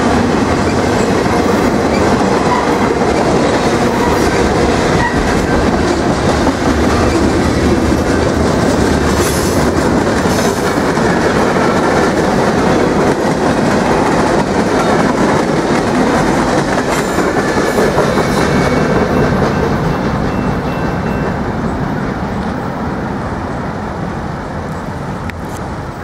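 Manifest freight train's cars rolling past, a steady rumble with wheels clattering over the rail joints. The sound fades away over the last several seconds as the end of the train passes and moves off.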